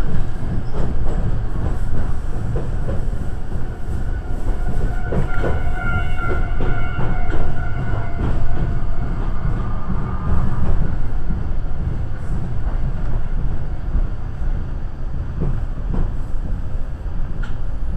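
Iyotetsu electric commuter train running along the track, heard from inside the front of the car: a steady rumble with wheels clacking over rail joints, a quick run of clacks about five to eight seconds in, and a faint whine through the first half.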